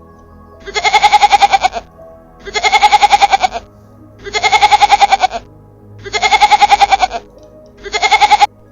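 An animal call, repeated five times identically and evenly spaced, each about a second long with a rapid wavering flutter, over background music.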